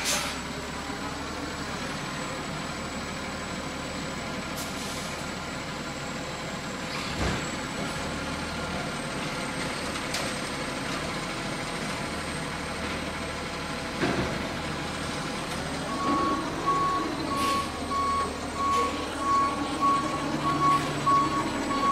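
Garbage truck engine running steadily, with a couple of sharp clunks. About three-quarters of the way in the engine picks up and the truck's reversing alarm starts beeping in an even, repeating pattern.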